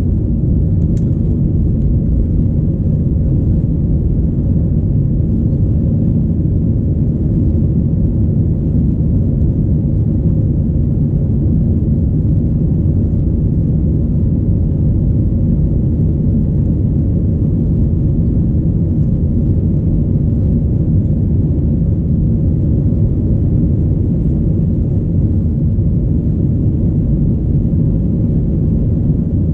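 Airbus A319-114 jet engines and airflow heard from inside the passenger cabin: a steady, loud low rumble that does not change.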